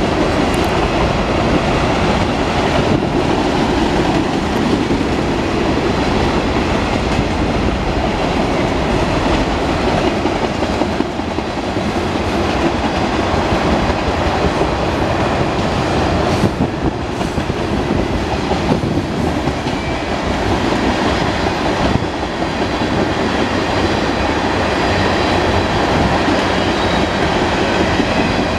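Freight train cars (boxcars, covered hoppers and tank cars) rolling past: a steady, loud rolling noise of steel wheels on the rails, with a few clicks as wheels cross rail joints.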